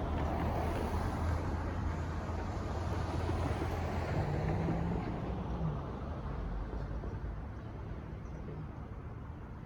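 Freight train of autorack cars rolling past on the rails: a steady low rumble with wheel and rail noise that fades away in the second half.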